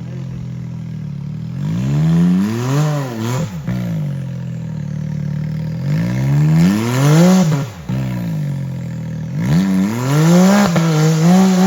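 Side-by-side UTV engine revving up and back down three times over a steady lower running note, as the machine works its way over a rock obstacle.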